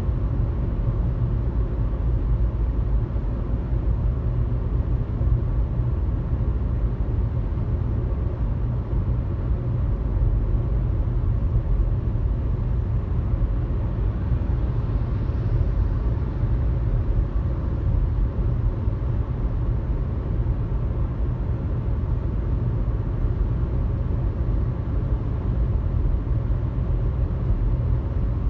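Steady low rumble of a car cruising at highway speed, road and engine noise as heard from inside the cabin, with a faint swell of hiss about halfway through.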